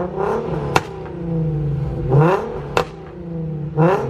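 Datsun 240Z engine revved three times, each rev rising in pitch and dropping back to idle. A sharp crack follows each rev.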